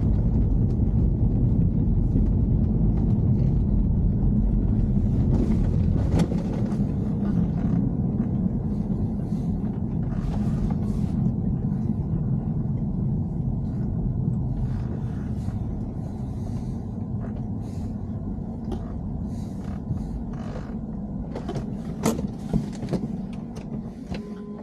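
BMW E90 3 Series on the move: a steady road rumble that slowly eases off, with short creaks and clicks scattered through it, the abnormal noise being recorded.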